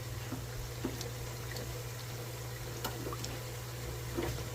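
Beignet dough frying in hot oil: scattered small crackles and pops over a steady low hum.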